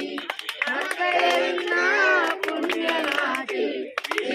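A group of people singing together without instruments, with hand claps along with the song.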